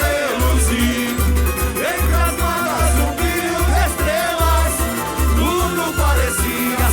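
A samba-enredo played live by a samba school's bateria and sung by its singers: deep surdo bass drums keep a steady beat under smaller percussion while the voices carry the melody.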